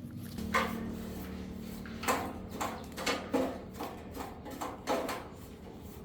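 Irregular knocks, clinks and scrapes of metal parts and hand tools being handled during repair work, about one every second or less, over a faint steady hum.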